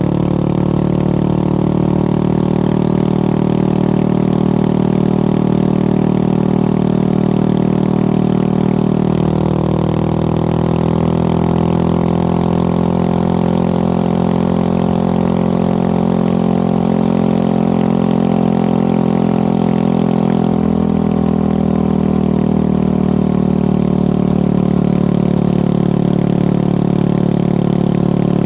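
Motorcycle engine running steadily on the move. Its pitch drops about ten seconds in and shifts again about twenty seconds in.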